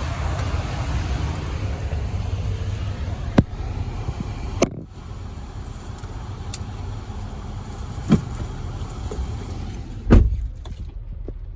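Vehicle in motion: a steady low rumble of engine and road noise that drops off about five seconds in, with a few sharp clicks and a heavier thump near the end.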